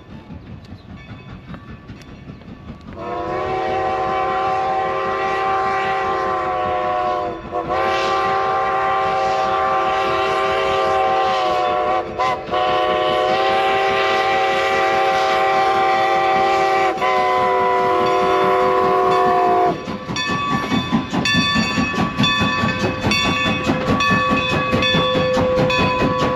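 Train rumbling, then a locomotive horn sounding a multi-note chord in four long blasts with short breaks, the last one a little shorter. After the horn stops, the wheels clatter rhythmically over the rail joints as the train passes.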